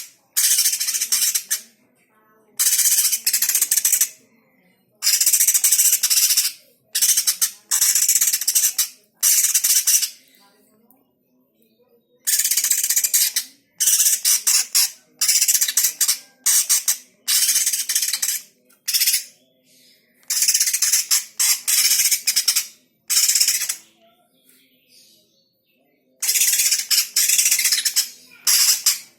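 Greater green leafbird (cucak hijau) singing in bursts of dense, high-pitched chattering. Each burst lasts about half a second to a second and a half, with short pauses between.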